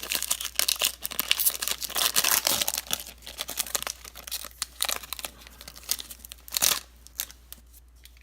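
Foil wrapper of a Pokémon trading card booster pack being torn open and crinkled. The crinkling is densest over the first three seconds, then turns to sparser rustling, with one last sharp crinkle near the end.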